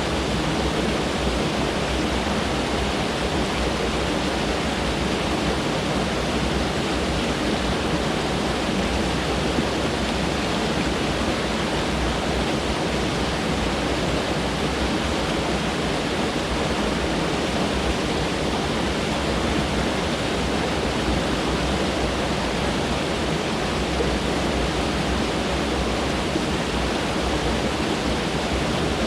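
Mountain stream rushing over rocks: a steady, even rush of water with no breaks.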